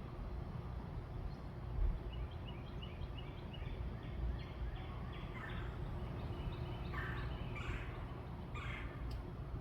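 Wild birds calling: a quick run of short chirps about two seconds in, then several harsh, scratchy calls from about halfway, over a steady low rumble.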